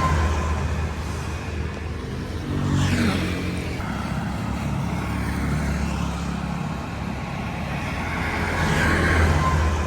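Street traffic: engines running past in a continuous rumble, with vehicles swelling louder as they pass about three seconds in and again near the end.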